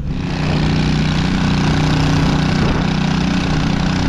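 Diesel engine of heavy construction equipment running steadily, growing louder just after the start.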